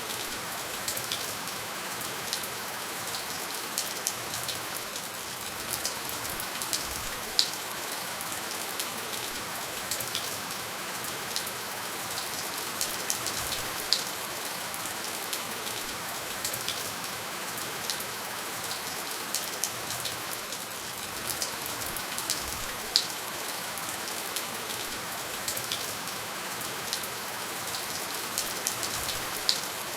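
Steady rainfall: an even hiss of rain with many separate drops ticking sharply and irregularly on a hard surface. No thunder.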